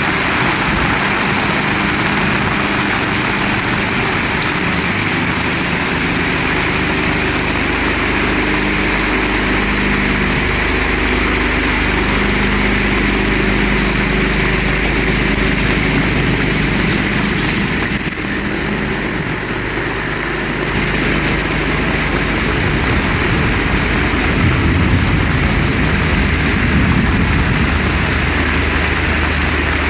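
Heavy rain falling steadily, a dense hiss, with a low steady hum underneath from a few seconds in. The higher part of the hiss briefly dulls for a couple of seconds past the middle.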